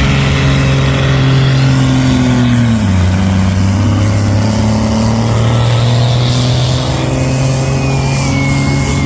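Hot stock class pulling tractor's diesel engine running loud and hard under load. Its pitch drops about three seconds in and climbs back a couple of seconds later. A thin whistle sounds near the end.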